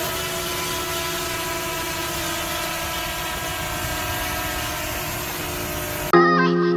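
Multirotor drone's propellers humming steadily, a whirring noise with several steady tones and no change in pitch. It stops abruptly about six seconds in, when music cuts in.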